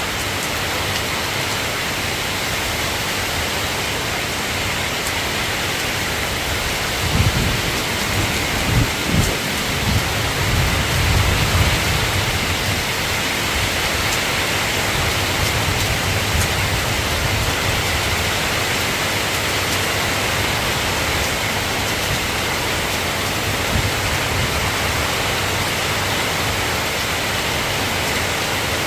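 Steady rain falling. About seven seconds in, a low rumble of thunder rolls in several swells and dies away after about five seconds.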